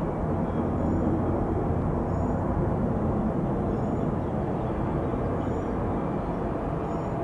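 Steady low noise of airliner jet engines, even in level throughout.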